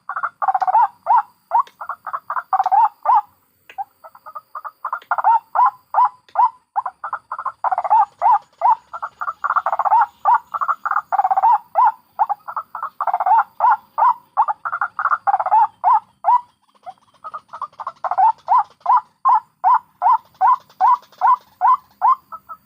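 White-breasted waterhen (ruak-ruak) calls from a bird-lure recording: a fast, loud run of repeated croaking calls, about three a second, broken by two short pauses and cutting off suddenly at the end.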